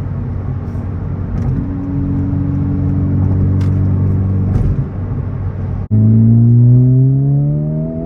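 Modified Honda Civic Type R FL5's turbocharged 2.0-litre four-cylinder engine running at steady, fairly low revs. About six seconds in, after a sudden cut, it pulls hard, louder, with the revs climbing steadily.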